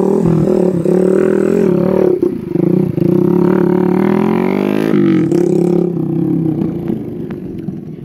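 Motorcycle engine running, its pitch rising and falling as the throttle changes, dropping back and growing quieter near the end.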